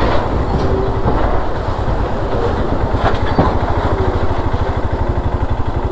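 Vehicle engine running steadily with a rapid low pulsing, under wind and road noise, with a couple of short knocks about three seconds in.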